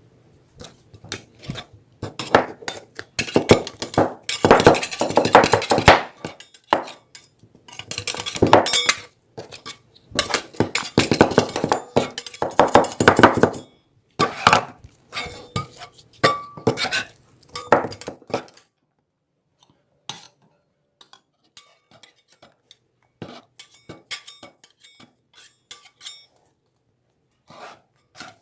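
Hard objects clinking and clattering, in dense stretches through the first half, then scattered light clicks and taps.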